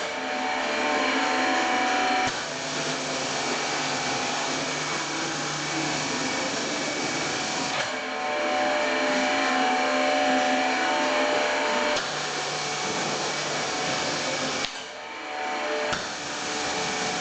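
Pressure washer running while its spray rinses engine-cleaner chemicals off a car's engine bay. Its steady hiss and motor hum change a few times, and there is a brief drop in level near the end.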